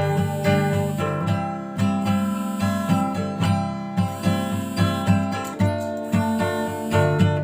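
Acoustic guitar with a capo strummed in a steady rhythm, moving through a simple chord progression as an instrumental outro after the last sung line.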